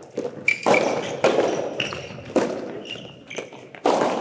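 Soft tennis ball being struck by rackets and bouncing in a rally, sharp hits echoing in a hall, with short high squeaks between them.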